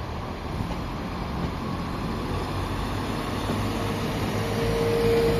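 Low rumble of a train growing steadily louder, with a steady whine coming in over the last couple of seconds.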